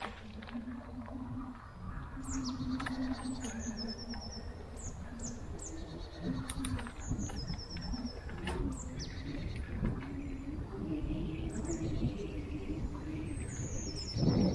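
Small woodland birds calling again and again, with short high chirps and quick high trills, over the steady low rumble of a bicycle rolling along a forest path.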